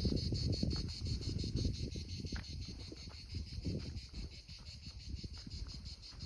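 Crickets chirping in a steady, evenly pulsing high trill, with wind buffeting the microphone as low rumbling gusts that are loudest at the start and ease off.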